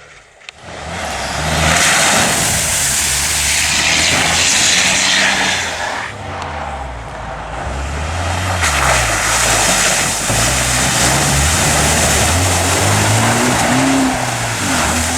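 Rally-raid car engine revving hard, pitch climbing and dropping through gear changes, with heavy tyre and road noise as the car passes at speed. It eases briefly about six seconds in, then surges loud again from about eight and a half seconds.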